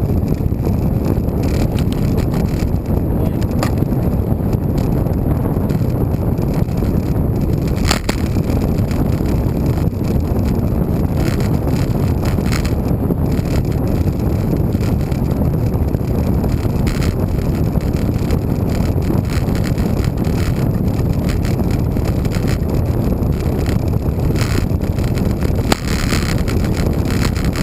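Wind buffeting the microphone of a camera riding on a moving road bike: a steady low rumble, with a couple of sharp clicks.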